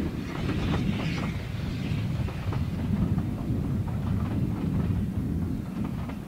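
Steam train hauled by LSWR T3 No. 563 going away. Its wheels click over the rail joints for the first couple of seconds and then fade, under a steady low rumble.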